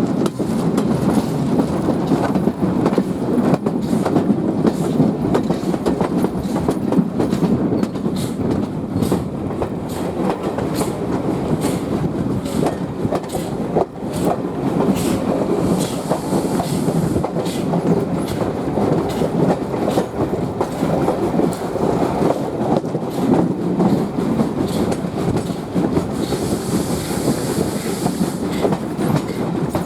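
A passenger train hauled by the steam locomotive GWR No 1501, heard riding along with a steady rumble and frequent clickety-clack of the wheels over the rail joints. A higher hiss rises briefly about halfway through and again near the end.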